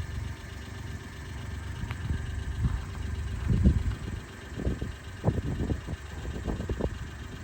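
Suzuki Carry kei truck's turbocharged F6A three-cylinder engine idling with a steady low rumble, with irregular short bumps between about three and seven seconds in.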